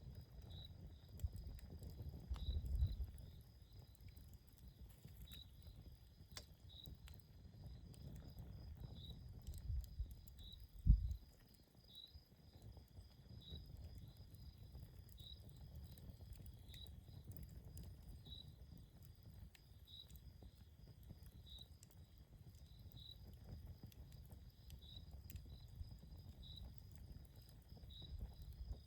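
Campfire crackling with faint, scattered pops over a low rumble, while a cricket chirps steadily about once a second. A short, low thump comes about eleven seconds in.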